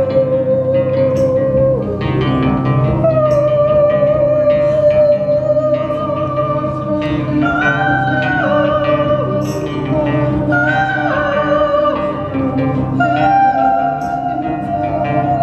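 Live band music in an instrumental passage: a melody of long held notes stepping up and down over steady accompaniment.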